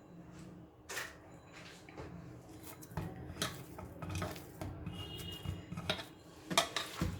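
Scattered clinks and knocks of kitchen dishware and utensils being handled while pizza dough is divided and set out for rolling, with the loudest knock near the end.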